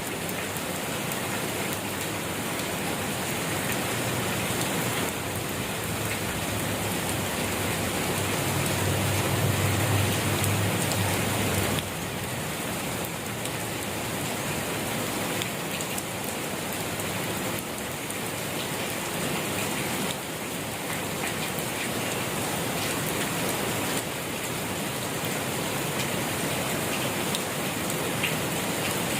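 Steady rain falling on a surface: an even hiss with scattered drop ticks. A low rumble swells under it around ten seconds in and drops away a couple of seconds later.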